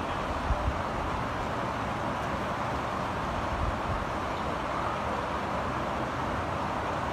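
Steady rain falling, an even hiss, with two brief low thumps about half a second in.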